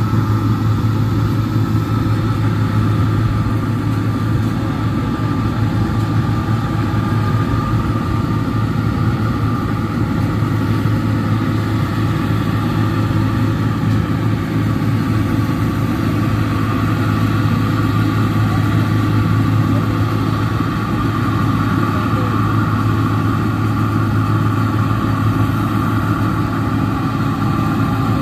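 New Holland 1545-S combine harvester running steadily, a continuous, unchanging engine drone with a constant higher hum above it.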